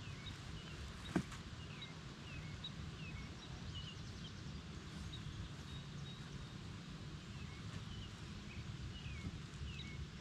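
Small bird chirping repeatedly in short, falling notes over a low steady background rumble, with a single sharp click about a second in.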